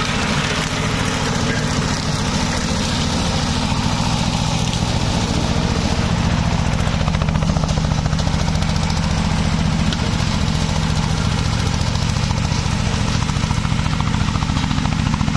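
Mower engine running steadily at constant speed, with a low droning hum and a fast, even pulse that does not change.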